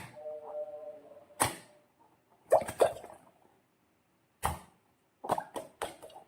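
Slime being squished and pulled by hand: a series of sharp wet pops and plops, some in quick pairs, with a brief squeaky tone just after the first one.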